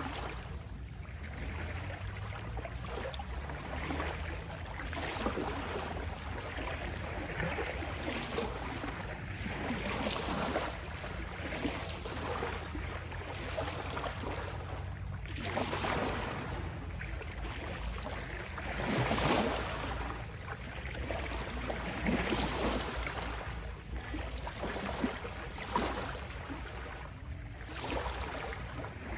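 Small waves lapping and washing on a shore, each soft wash rising and falling every second or two, with a few larger surges, over a steady low rumble of the sea.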